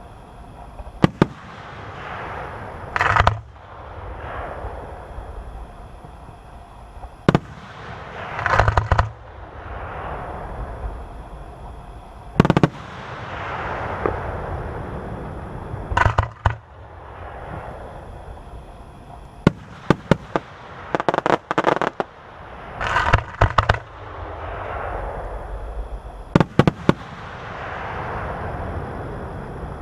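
Aerial fireworks bursting: loud single bangs every few seconds, with several quick rattling clusters of cracks, over a continuous wash of noise between the bursts.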